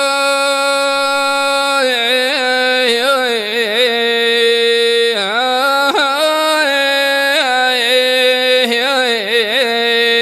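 A man singing al-wanna, a traditional Omani sung lament, with no accompaniment: one note held for about two seconds, then long drawn-out phrases with wavering, ornamented pitch.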